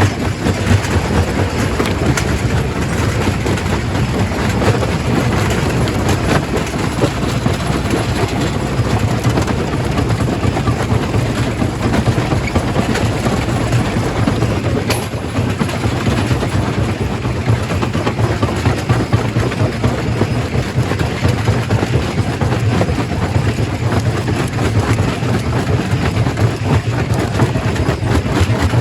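Quarry primary rock crusher running: a loud, steady, dense mechanical noise with a strong low hum and no pauses.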